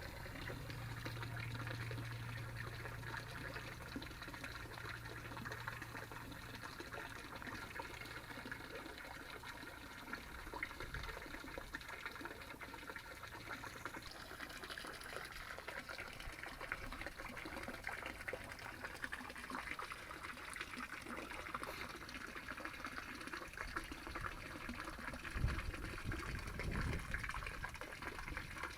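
Water trickling and splashing steadily, with a low hum for the first eight seconds or so and a few low thumps near the end.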